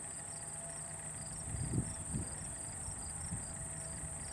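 Crickets chirping in short double pulses, about two a second, over a steady high insect drone, with a faint low rumble underneath.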